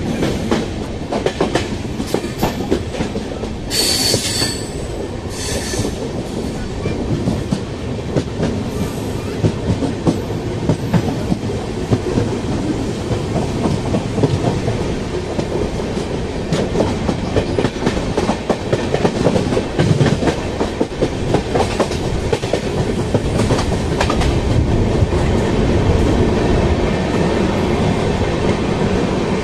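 Passenger train running on the track, its wheels clattering rapidly over the rails with a steady rumble. Two short high wheel squeals come about four and five and a half seconds in.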